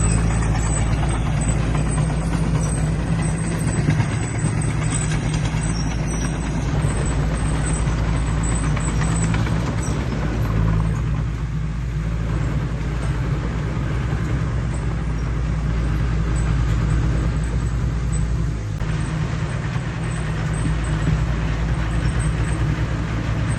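Heavy diesel earthmoving machinery, a bulldozer and dump truck, running steadily at work with a deep, continuous engine hum.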